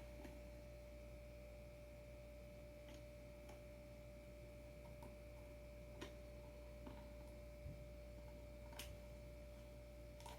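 Faint, scattered clicks and taps of small hardware being handled during the adapter install, about seven or eight over ten seconds, over a steady low hum.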